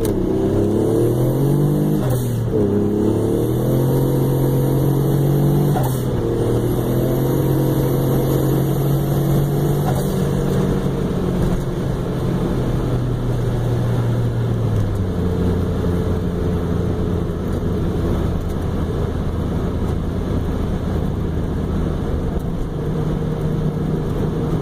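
Turbocharged Mazda MX-6 LS's 2.5-litre V6 heard from inside the cabin, revving up and dropping back in pitch over the first few seconds, then pulling at a steady pitch. About fifteen seconds in it settles to a lower steady drone, with a few brief clicks along the way.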